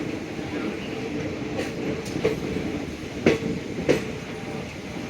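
Passenger train coach running on the track: a steady rumble with a few sharp metallic clacks as the wheels pass over rail joints, the two loudest close together a little after halfway.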